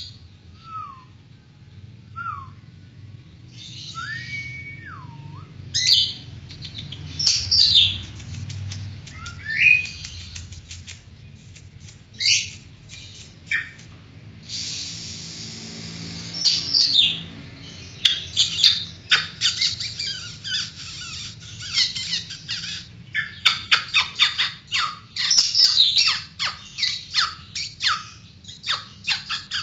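Oriental magpie-robin (kacer) singing a varied song of mimicked phrases from birds like the long-tailed shrike, lovebird and white-rumped shama. It opens with a few separate falling and bending whistles, then loud sharp notes and a harsh squawk, and from about the middle on becomes a fast, dense run of piercing chattering notes.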